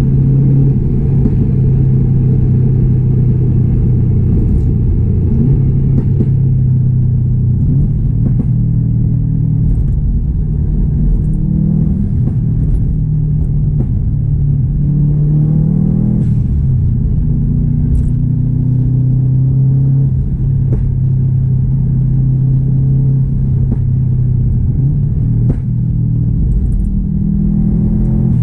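2016 Subaru WRX STI's turbocharged 2.5-litre flat-four engine and exhaust under way: a steady low drone at constant speed, with the pitch climbing under acceleration about halfway through and again near the end.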